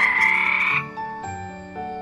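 A frog croaking once, loud and lasting under a second, over soft background marimba music.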